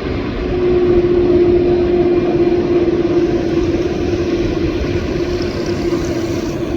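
Airbus A330 jet engines running: a steady rumble with a constant droning tone, growing a little louder about a second in.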